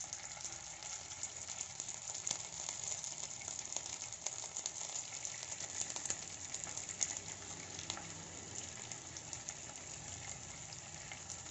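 Masala-coated squid rings and curry leaves sizzling in shallow hot oil in a frying pan, with scattered sharp pops of spitting oil.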